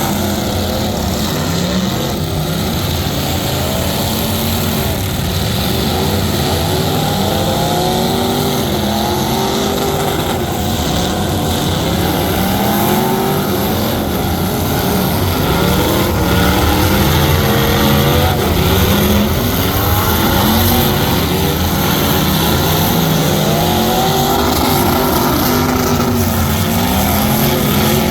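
Loud truck engines revving, their pitch rising and falling repeatedly over a constant rumble, with more than one engine heard at once.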